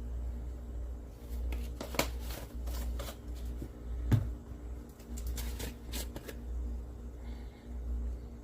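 Kitchen handling noises: a run of short scrapes and clicks, with a single knock about four seconds in, over a steady low hum.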